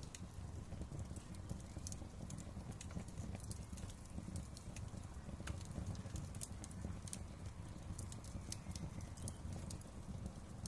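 Wood fire crackling in a fireplace, with irregular sharp pops and snaps over a low steady rumble of burning.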